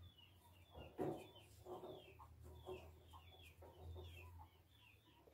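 Faint bird calls: short, high, falling chirps, about three a second, with some lower calls between them. A soft knock about a second in.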